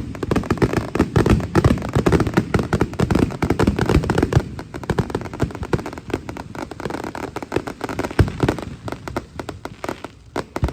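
Fireworks going off in a rapid, dense barrage of bangs and crackling that thins out and fades near the end.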